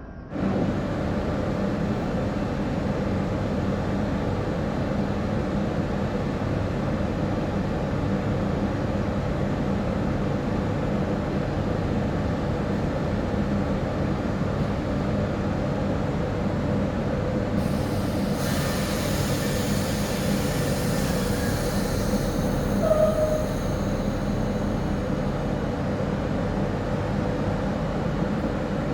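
Train running along the track: a steady rumble with a brief high squeal about two-thirds of the way through.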